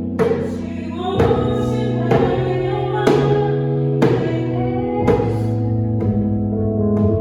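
Worship song performed live: a singer over sustained chord accompaniment, with a djembe struck about once a second.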